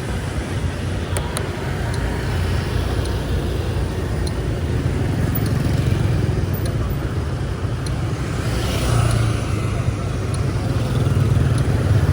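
Steady low rumble of motor vehicle engines in road traffic.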